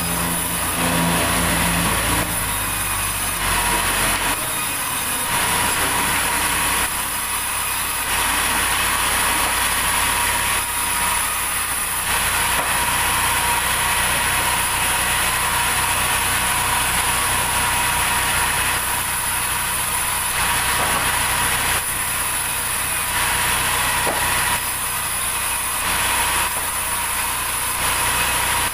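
Sawmill machinery running steadily: an engine drone with a constant high whine and hiss over it. The deepest part of the engine note falls away about four seconds in.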